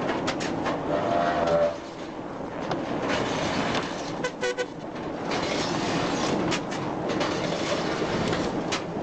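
A heavy vehicle running with a steady rumble, with scattered knocks and clatter and a couple of short tones.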